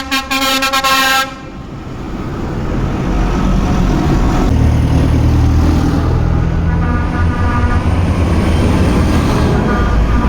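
A vehicle horn sounds for about a second, then a tractor's diesel engine rumbles past, growing louder and staying loud.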